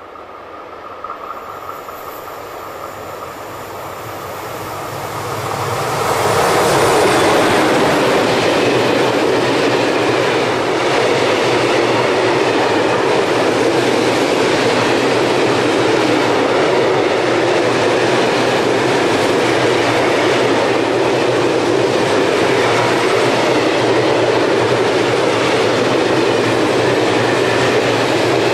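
Freight train hauled by an electric locomotive approaching and passing close by: the sound grows over the first six seconds as the locomotive draws near, then a steady loud rumble of open freight wagons rolling past on the rails.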